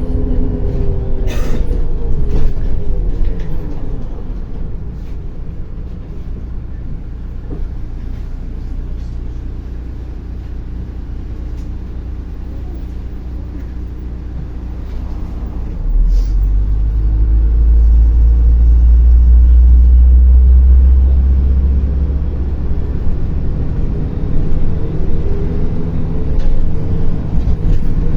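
MAZ-105 city bus heard from inside the cabin. The engine note falls as the bus slows, then it runs quietly for several seconds. About sixteen seconds in, a deep rumble suddenly starts as the engine takes load to pull away, and near the end its pitch rises as the bus accelerates. Short sharp hisses come about a second in and again when the rumble starts.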